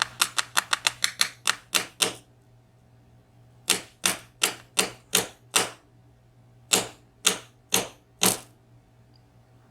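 Sharp metal taps and clicks from working on a disassembled dimple lock cylinder while freeing its pin springs and drivers. About a dozen quick taps in the first two seconds, then six evenly spaced taps after a pause, then four more.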